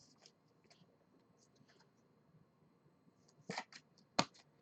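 Baseball trading cards being handled and flipped through: faint rustles and ticks, then two louder sharp clicks about three and a half and four seconds in.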